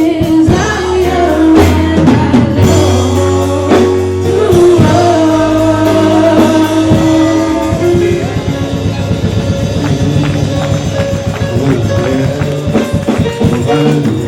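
Live church praise band playing, with singing over drums, bass and guitar at a steady beat.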